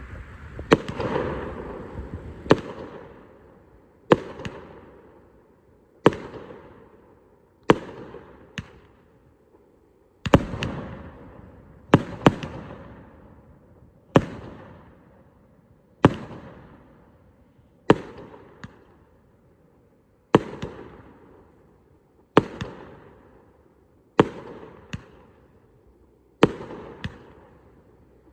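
A 25-shot Nature Boy fireworks cake firing, with a sharp bang about every two seconds, each trailing off in a fading crackle, and a few smaller pops between some shots.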